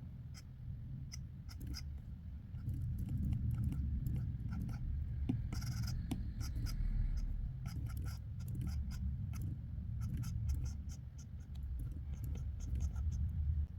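Sketching on paper: a drawing tool scratching across the sheet in quick short strokes, with a steady low rustle and many short ticks as the strokes start and stop.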